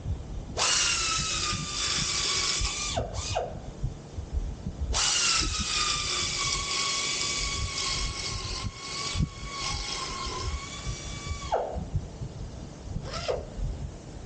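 Handheld electric power tool cutting, its motor whining in two runs, a short one and a longer one of about six seconds, the pitch sagging slightly under load. There are quick trigger blips between the runs and near the end.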